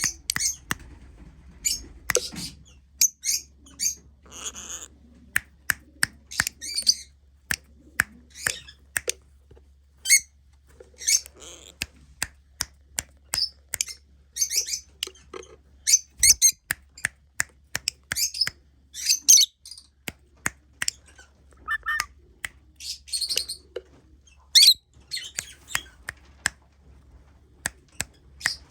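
Lovebirds chirping and squawking in short high calls throughout, with many sharp clicks among them.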